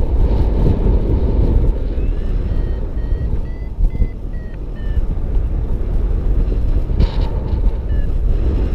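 Wind rushing and buffeting over the microphone in paragliding flight, with a paragliding variometer's short electronic beeps, about two or three a second, from about two seconds in to about five, their pitch rising a little then falling, and one more near the end: the vario's signal that the glider is climbing.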